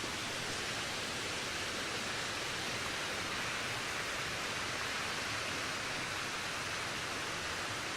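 Steady wind: an even, unbroken rushing hiss that swells slightly in the middle.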